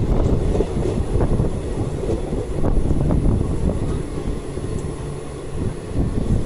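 Maa Tara Express passenger train running, heard from on board: a steady low rumble of wheels on the rails, with scattered short knocks and rattles.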